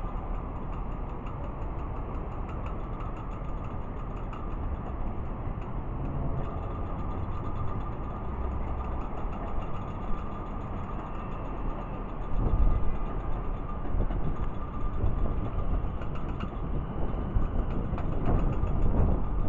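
Siemens electric suburban train running along the tracks with a steady rumble, heard from a distance. Wind buffets the microphone in gusts in the second half.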